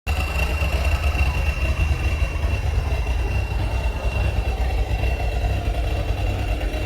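Live noise music: a dense, steady low rumble under a grainy crackle, with a thin high tone held steady above it.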